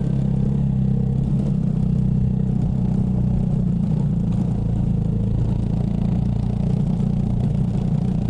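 Motorcycle engine running steadily at cruising speed, with a rough, clattering ride noise over it.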